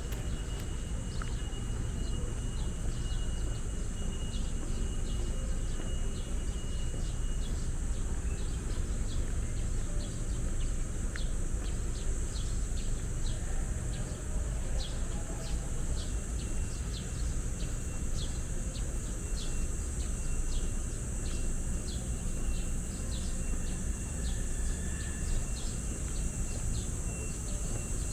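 Steady high-pitched insect buzz with rapid ticking chirps, over a low, steady rumble of distant city traffic.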